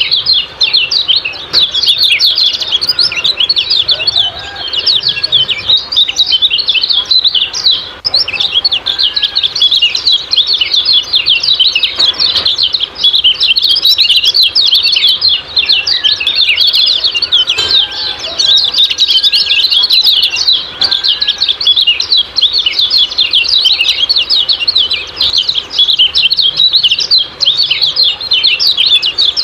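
Kecial kuning (a white-eye) chirping 'ciak-ciak', a fast, unbroken high-pitched twitter of many short notes, with a few lower whistled notes now and then.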